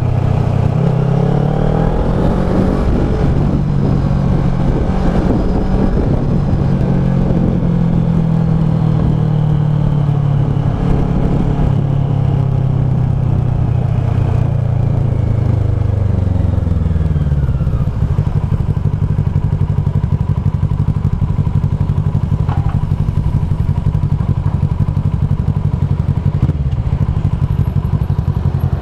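Kawasaki ER-6f's parallel-twin engine through a Leo Vince SBK slip-on exhaust, its pitch rising and falling with the throttle for most of the first half. About two-thirds of the way in the note drops and settles into a steady low, even run.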